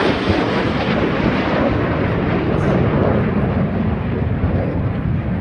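Jet noise from Thunderbirds F-16 fighters passing low overhead and moving away. The high-pitched roar fades over the first couple of seconds, leaving a loud, deep rumble.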